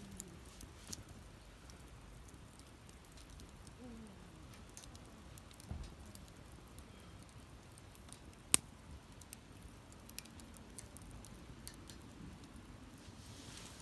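Wood fire crackling, with scattered sharp pops and one louder pop a little past halfway.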